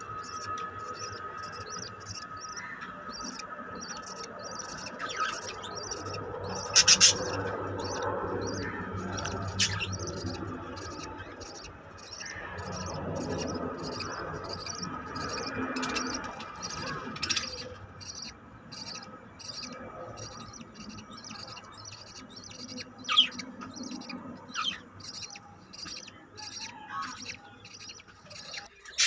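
Budgerigars chirping and chattering in rapid, continuous high chirps, with a few louder, sharper calls, the loudest about seven seconds in.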